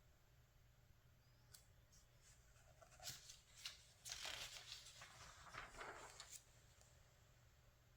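Faint rustle and light clicks of a glossy magazine page being turned by hand, starting about three seconds in and lasting about three seconds.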